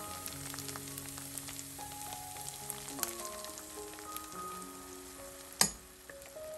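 Onion, garlic and tomato paste sizzling in oil in a frying pan, with light crackling. Soft background music plays over it. There is one sharp click a little before the end.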